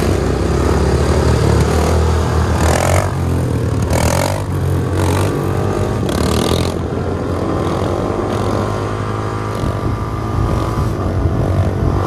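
Dirt bike engine running hard as it is ridden, its pitch rising and falling with the throttle and climbing again near the end. Three short rushes of noise come over it in the first half.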